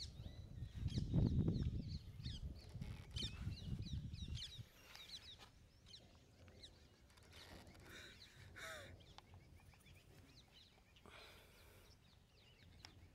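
Small birds chirping in the background, many short high calls, with one longer falling call about two-thirds of the way through. A low rumble on the microphone sits under the first four or so seconds, then drops away.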